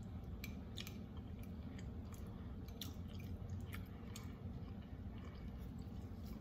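Close-up chewing of a mouthful of soft cauliflower mac and cheese: small, wet, irregular mouth clicks and smacks over a low steady hum.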